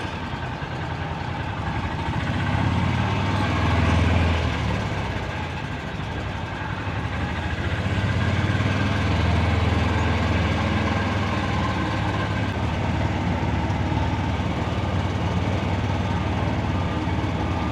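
A vehicle engine runs steadily with a low hum over a constant rushing noise. The hum swells about four seconds in, then again from about eight seconds in.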